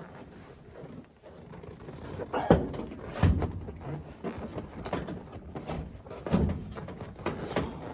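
Knocks and clunks of parts being handled and set into place in the cab of a Ford Model A pickup, with the loudest knocks about two and a half and three and a half seconds in and again past six seconds.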